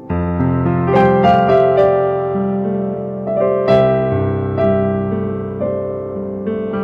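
Slow keyboard music, electric piano or piano, with sustained chords and single notes struck every second or so over a held bass.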